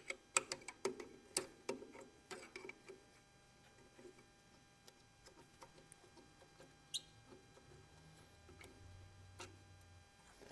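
Light metallic clicks and taps of hand tools working on an old tractor during disassembly. They come thick and irregular in the first few seconds, then thin out to an occasional tick.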